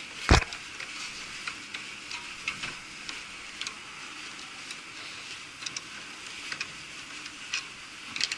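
A sharp knock about a third of a second in, then scattered light clicks and taps over a steady hiss: knocks and clicks of hands, rope and tools on the cooling tower's fan and gear-reducer assembly as a man climbs onto it.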